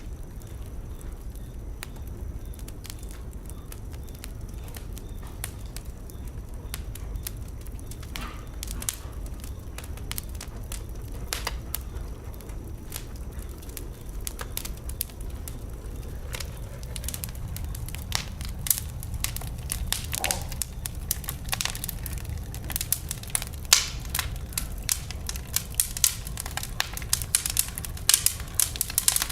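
Wood fire burning in a fireplace, with a low rumble under sharp crackles and pops that grow more frequent toward the end.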